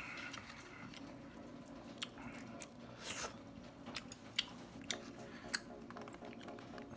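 Close-miked chewing of instant cup noodles, with scattered short wet clicks and smacks.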